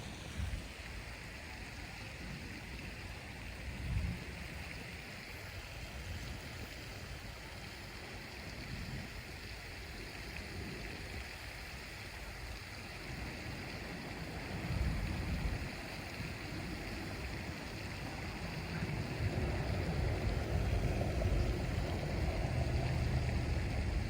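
Outdoor ambience at the water's edge: wind buffeting the microphone in irregular low rumbles over a steady hiss, the gusts heavier near the end.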